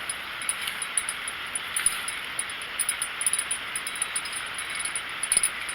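Small bell clipped to a fishing rod tip jingling in quick, irregular tinkles as the rod moves, over a steady background hiss.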